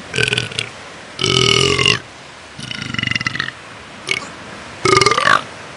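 A run of AI-generated cat burps, about five of uneven length, some with a pitch that slides down or up, over a steady wash of sea noise.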